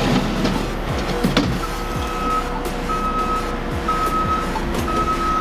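A vehicle's reverse alarm beeping: a high steady tone repeating about once a second, starting a little over a second in, four beeps in all, over a running engine.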